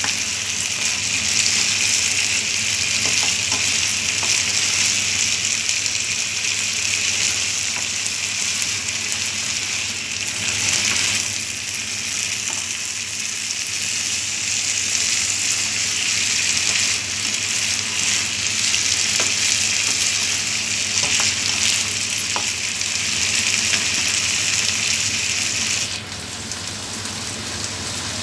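Chicken and cut green beans sizzling steadily as they are stir-fried in a nonstick wok, with a few light scrapes and taps of the spatula. The sizzle drops suddenly quieter about two seconds before the end.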